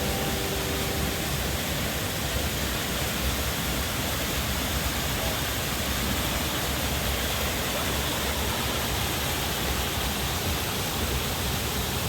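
The Bad Urach waterfall: water pouring over a rock face into a small pool below, a steady, even rush.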